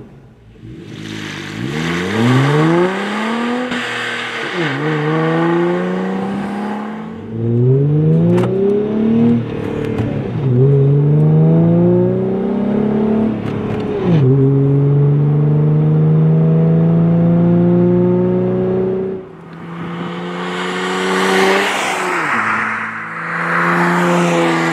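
Jeep Wrangler JL engine through a Flowmaster American Thunder axle-back exhaust, accelerating through the gears: the exhaust note climbs in pitch and falls back sharply at each of several gear changes. It then holds a steady note for a few seconds, drops briefly and climbs again near the end.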